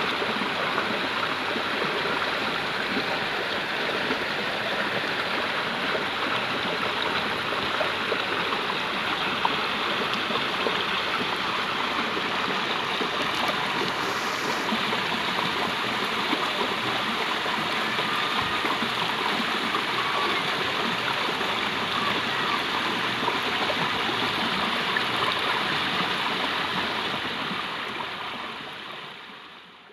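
Stream water flowing steadily, fading out over the last three seconds.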